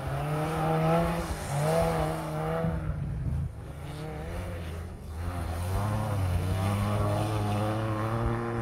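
Engines of old wreck-race cars revving hard on a muddy track, pitch climbing and dropping repeatedly as the drivers accelerate and lift off. The sound drops away about three seconds in, then a second car's engine comes up louder and keeps climbing as it nears.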